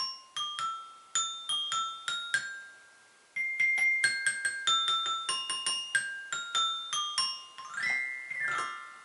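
A toy xylophone played with a mallet: a simple tune of single struck, ringing notes, a short pause a little way in, then a quick glissando swept up and down across the bars near the end.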